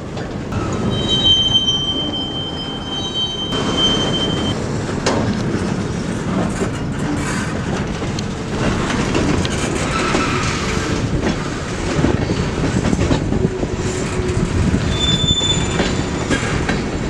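Freight train rolling past, with a steady rumble of cars on the rails and high-pitched wheel squeal that comes and goes.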